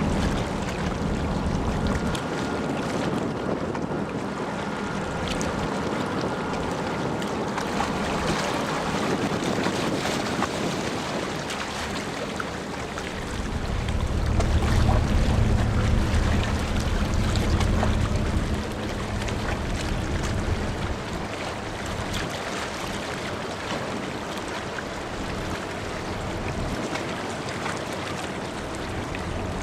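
Large car ferry New Akashi getting under way, its engines and churning water giving a steady rumble under wind noise on the microphone. A deeper, louder low rumble swells for about five seconds midway, then eases back.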